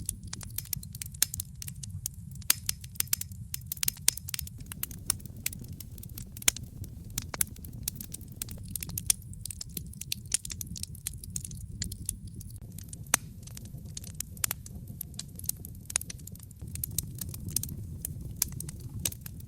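Wood fire burning in a fireplace: a steady low rumble of flames with dense, irregular sharp crackles and pops from the burning logs.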